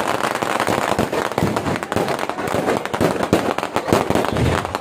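Fireworks going off in a dense, continuous barrage of sharp cracks and bangs.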